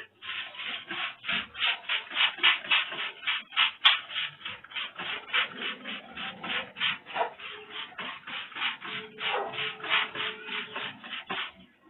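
Rapid, rhythmic swishing strokes, about three to four a second, with a couple of short pauses, as the shampooed bird is rinsed with water.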